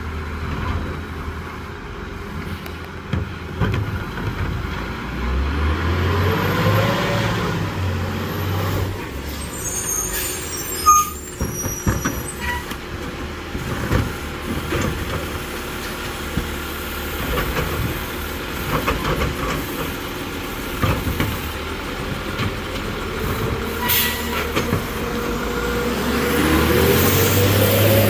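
CCC New Way Sidewinder side-loading garbage truck working its route: the engine revs up rising in pitch twice, a few seconds in and near the end. In between come air-brake hisses and a sharp clank about eleven seconds in.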